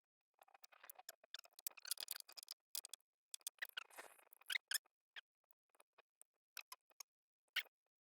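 Faint building-work noises: a quick scatter of clicks, taps and short scrapes, as of hands working on wooden framing, with dead silence between them. They crowd together in the first half and thin out to a few single clicks later.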